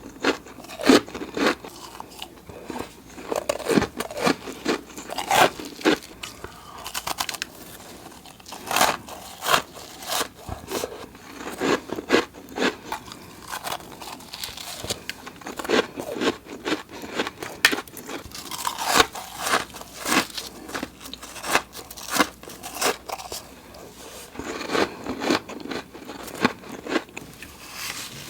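Close-miked biting and chewing of flaky, crisp freezer frost in big chunks: a run of sharp, irregular crunches and crackles, several a second.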